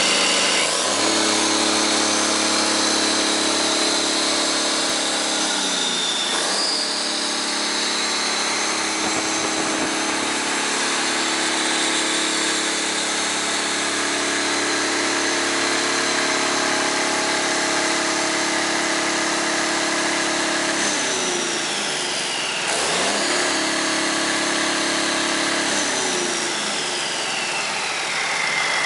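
Heavy-truck diesel engine running on a run test, its speed changing several times, with a high whine above it that slides down as the revs come off.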